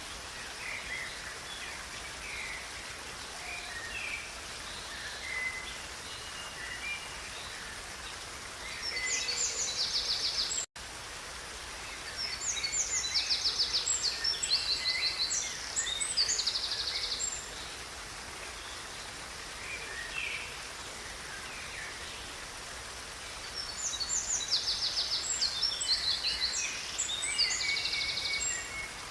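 Songbirds singing over the steady rush of a river: three spells of fast, high trilled song, roughly ten seconds apart, with scattered lower chirps between. The sound cuts out for an instant about ten seconds in.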